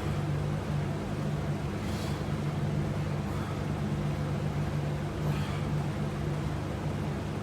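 Steady low mechanical hum, even in level throughout, with two faint soft swishes about two and five seconds in.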